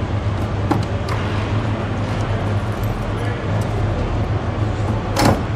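1969 Pontiac GTO's 400 cubic-inch Ram Air III V8, just started, idling steadily. A short, sharp noise sounds about five seconds in.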